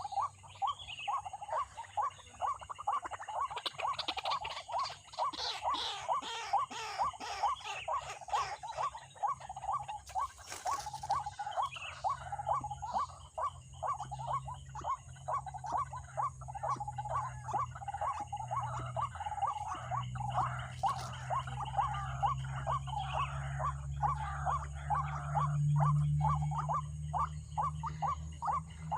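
White-breasted waterhen call, a rapid croaking run of short notes repeated several times a second without a break. A low steady hum swells in the second half.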